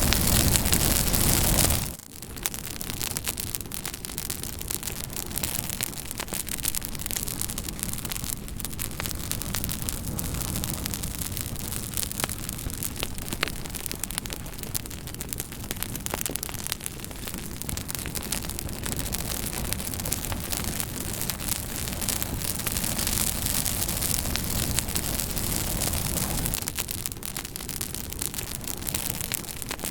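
Campfire crackling, a steady low hiss of burning wood with frequent small snaps and pops. A louder, even hiss covers the first two seconds and cuts off suddenly.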